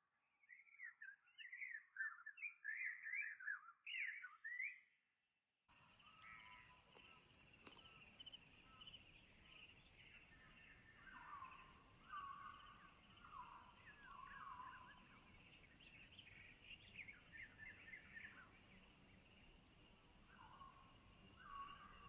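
Wild birds singing: quick chirping phrases at first, then, after a sudden switch to a noisier outdoor recording about six seconds in, scattered short calls over a faint steady hiss and a thin high hum.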